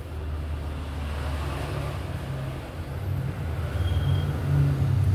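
A low, continuous motor-vehicle engine rumble that grows gradually louder.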